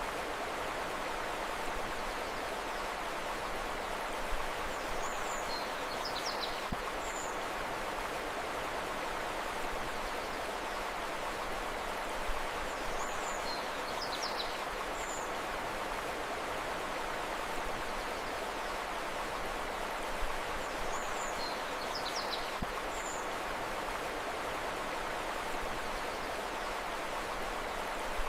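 Steady rush of flowing river water, with brief high bird chirps in small groups that recur about every eight seconds.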